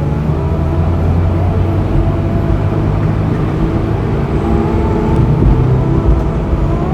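Honda S2000's 2.2 L F22C1 four-cylinder engine running steadily, its pitch wavering only slightly, over road noise.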